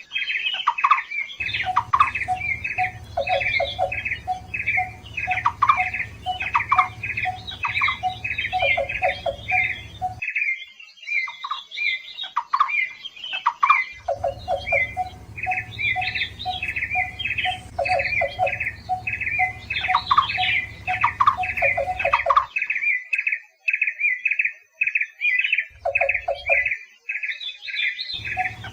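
Barbets calling: a fast run of repeated short notes over a lower series of rhythmic hooting notes, going on without pause. A low hum comes and goes with abrupt cuts, from joined recordings.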